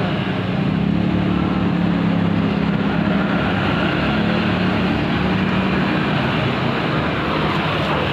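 Small ketinting longtail boat engine running at a steady speed, giving a continuous pitched hum.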